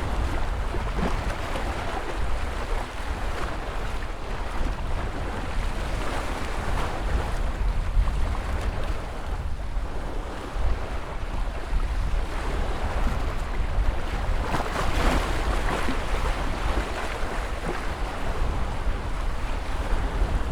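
Ocean surf: waves breaking and washing in a continuous rush with a deep rumble underneath, one wave surging brighter about 15 seconds in.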